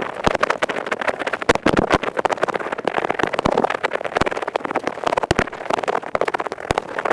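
Earpick scratching rapidly close to the microphone: a fast, dense crackle of scraping strokes, the high-speed 'kari-kari' ear-cleaning sound.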